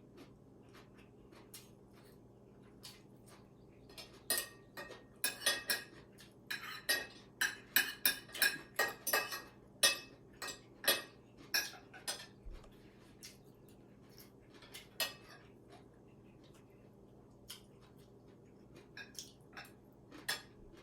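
Cutlery clinking and tapping against dishes while eating, with a dense run of sharp clinks, some briefly ringing, in the middle, then only occasional taps.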